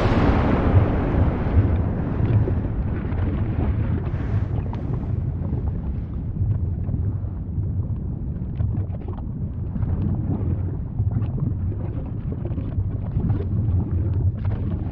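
Volcano eruption rumbling: a deep continuous roar with a louder surge at the start that fades over a couple of seconds.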